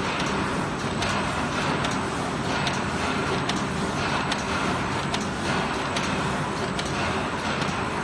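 Paper roll-to-sheet cross-cutting machine running steadily, its cutter giving a sharp click at a regular pace of a little more than one cut a second over the constant machine noise.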